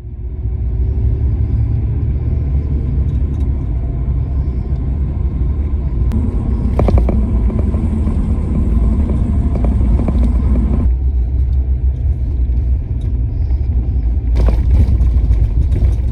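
Car driving, a steady engine and road rumble. The sound changes abruptly about eleven seconds in, and a sharp rushing noise comes in near the end.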